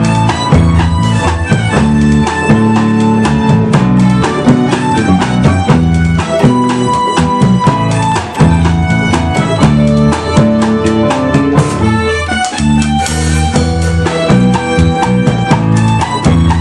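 A band playing, with a drum kit keeping a steady beat under guitar and bass.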